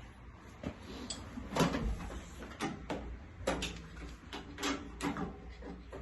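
Metal parts and tools being handled on a welding cart: a string of irregular knocks and clanks, about ten in all, spaced unevenly.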